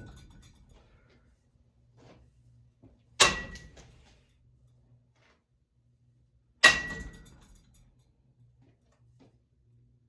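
Two sharp blows struck against a running mini vortex ceiling fan, three and a half seconds apart, each followed by a short ringing that dies away within about a second. A faint low hum sits underneath between the blows.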